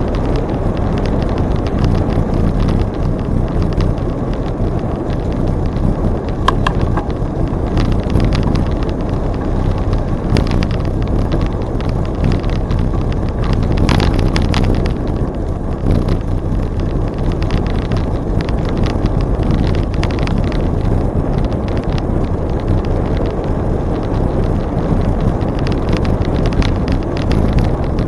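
Wind buffeting the microphone of a camera carried on a moving bicycle, a steady loud rush strongest in the low end, with small clicks and rattles from the bike and trail scattered throughout.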